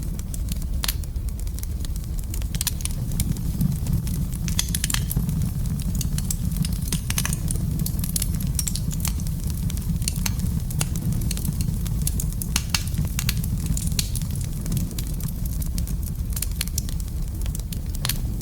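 Fire burning in a fireplace: a steady low rumble of flames under frequent, irregular sharp crackles and pops.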